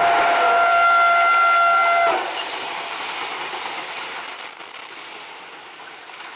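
Train horn sounding a steady two-tone blast that cuts off about two seconds in, over the rushing noise of a train passing on the track, which fades away toward the end.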